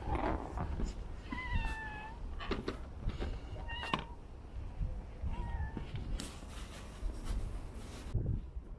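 Domestic cat meowing, three calls: a drawn-out meow about a second in, then two short ones, among light knocks and rustles of handling.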